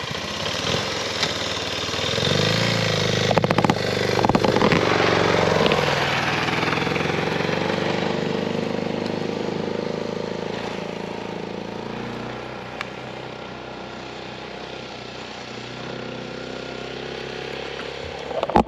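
Suzuki DR650 single-cylinder dirt bike pulling away and revving up a dirt hill, loudest a few seconds in and then fading as it climbs away. Another motorcycle engine idles steadily underneath.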